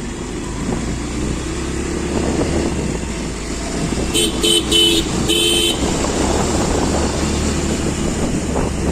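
Steady engine and road noise in traffic, with a vehicle horn sounding four short honks about four seconds in.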